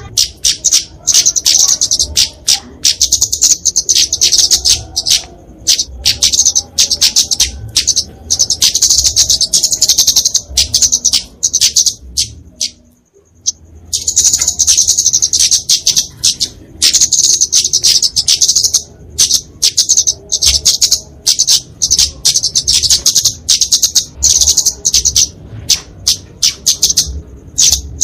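Kemade flowerpecker calling in dense, rapid series of very high-pitched, sharp chips: the agitated 'fighting' song used as a lure for small birds. There is a pause of about a second midway.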